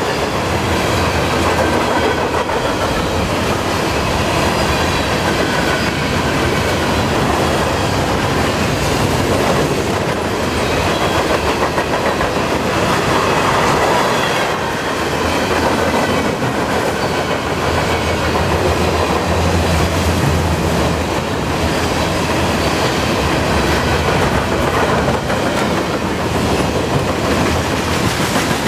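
Freight train cars rolling past: a steady rumble of steel wheels on rail with a repeating clickety-clack as the trucks cross the rail joints.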